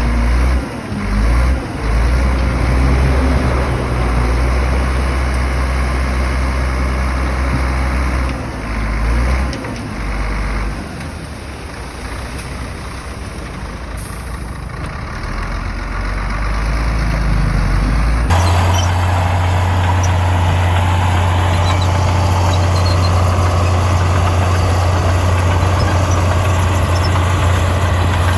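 Heavy diesel engine of an earthmoving machine working, its sound dipping and picking up again several times. About two-thirds of the way through it changes abruptly to a steadier, louder engine sound.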